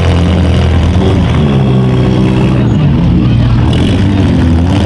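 Small-car demolition derby engines revving hard and continuously, their pitch rising and falling as the cars accelerate and back off.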